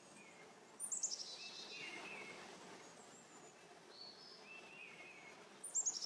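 Faint bird chirping: a quick descending high trill twice, about five seconds apart, with short thin whistled notes in between.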